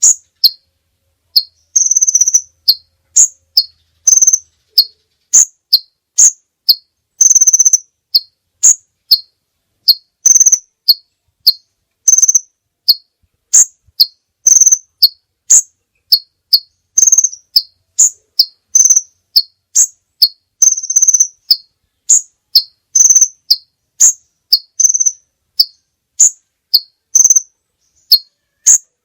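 Contest songbird singing: a repeated run of short, high chirps alternating between two pitches, a couple per second, broken every few seconds by a longer held high note.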